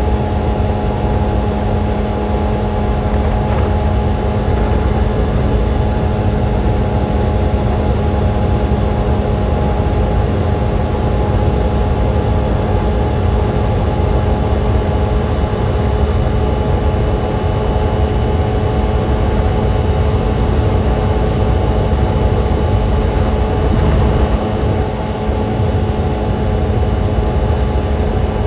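Sport motorcycle engine running at steady revs with a low rumble of wind and road noise, holding one even pitch with no revving.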